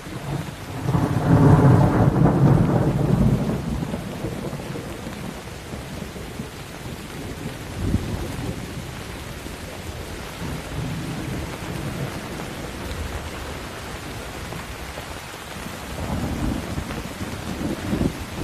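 Thunderstorm: steady rain with rolling thunder. A loud, low rumble starts about a second in and lasts a few seconds, then fades. Fainter rumbles and cracks follow near the middle and toward the end.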